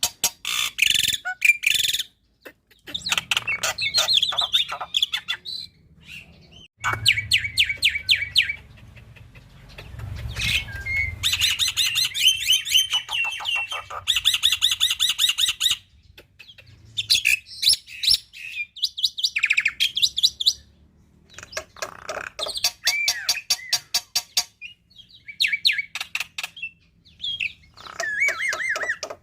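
Black-winged myna (jalak putih) singing a varied song: bursts of fast rattling trills and chatter mixed with whistled glides, broken by short pauses.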